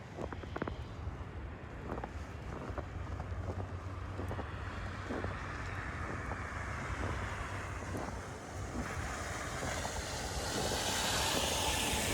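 Tyre hiss of a vehicle on a wet, snowy road, swelling and growing louder near the end, over a low wind rumble on the microphone.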